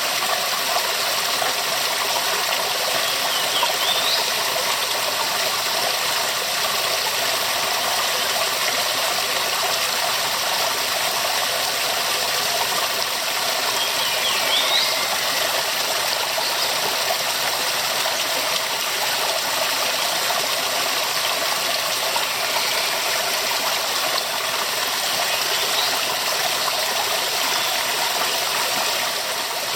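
Waterfall: a steady, dense rush of falling water, with a few faint, short, high rising chirps over it.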